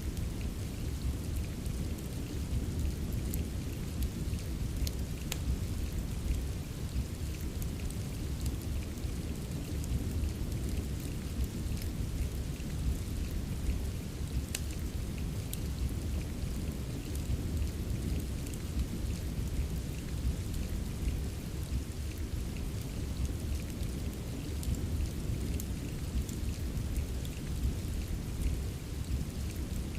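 Steady rain ambience with a deep, continuous rumble, mixed with the scattered sharp crackles of a wood fire burning in a fireplace.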